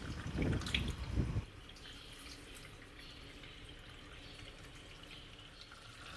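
Water from a manual Panasonic washing machine's tub trickling and dripping out through its partly loosened drain valve into the drain hose. For the first second and a half there are louder uneven handling noises over it, then a faint steady trickle.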